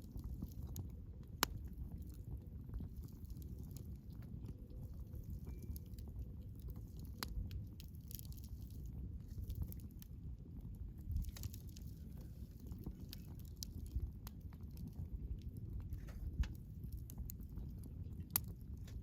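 Wood campfire burning: a steady low rumble of the flames with scattered sharp crackles and pops from the burning wood.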